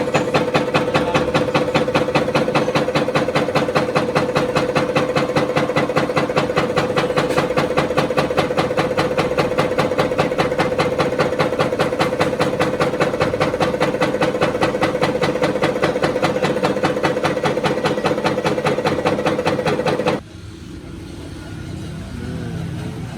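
A 260 tractor's diesel engine running steadily at idle with a fast, even beat, then cut off abruptly about 20 seconds in.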